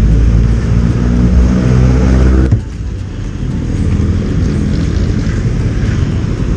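Motorcycle taxi's engine running under way, with steady engine tones for about two and a half seconds. The sound then drops suddenly as the throttle eases off, leaving a rougher rumble of engine and road noise.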